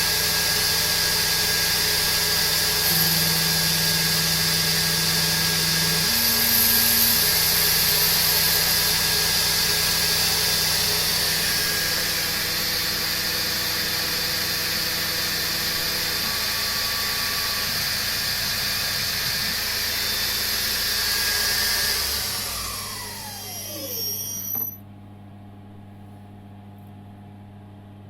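Emco CNC milling machine running with its spindle turning, a steady hiss under machine tones that shift in pitch every few seconds. About 22 seconds in the spindle winds down with a falling whine, and the machine cuts off near the end, leaving a faint hum.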